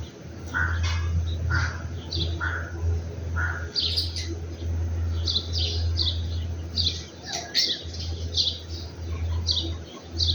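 Small birds chirping: a steady string of short, high chirps, about two or three a second, with a few lower calls in the first few seconds. A steady low hum runs underneath.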